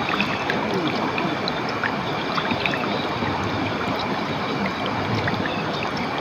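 Steady rush of flowing water from a stream or small waterfall, with short high chirps and ticks scattered through it.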